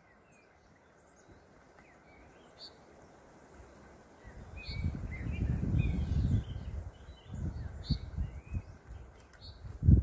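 Small birds chirping and singing in short scattered notes. About halfway through a low rumble rises for a couple of seconds, followed by a few low thuds and a heavy thump just before the end.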